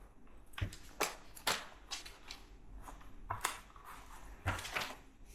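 Scattered small plastic clicks and rustles of LEGO pieces and their packaging being handled, about ten sharp clicks at irregular intervals.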